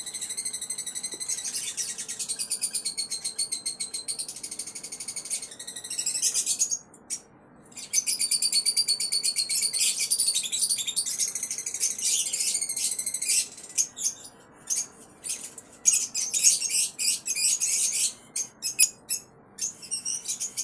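Caged pet birds chirping and chattering in fast, high-pitched trills, with a short pause partway through and choppier bursts in the second half.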